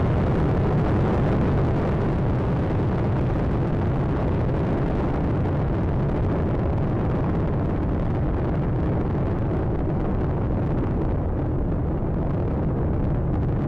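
Space Shuttle Atlantis's solid rocket boosters and three main engines during ascent: a steady, dense low rumble with hiss above it. The higher hiss thins a little toward the end as the shuttle climbs away.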